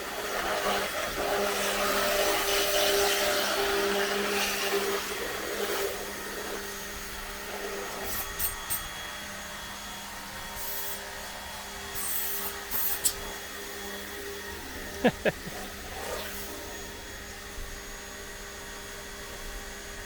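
Small 1300-watt Makita electric pressure washer running, its motor giving a steady hum under the hiss of the water jet, which is louder for the first six seconds or so. A few sharp clicks stand out, the loudest about fifteen seconds in.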